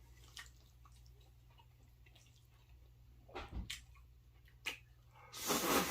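Faint eating sounds: a few soft mouth clicks and smacks, then a louder noisy burst lasting about a second near the end.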